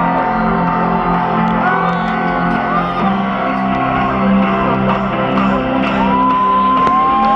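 Live concert music played loud over a steady bass, with shouts and whoops from the crowd; a long held voice rises and holds near the end.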